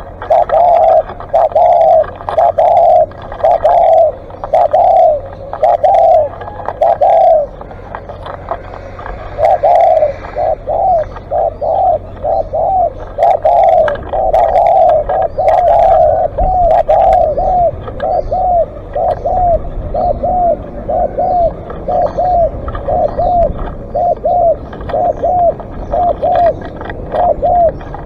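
Spotted dove cooing in long runs of short repeated notes, about two a second. It pauses about eight seconds in, then starts again with a faster, steadier run.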